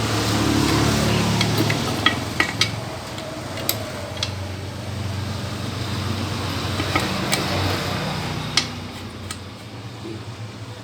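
Metal tools and engine parts clinking in sharp, scattered knocks over a steady low engine hum.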